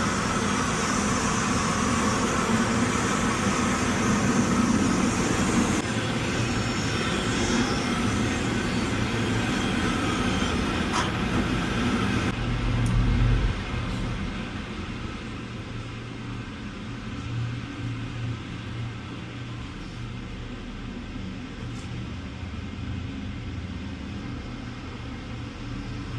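Boiler-room equipment running: a steady mechanical rumble with a hiss over it, dropping noticeably quieter a little past halfway.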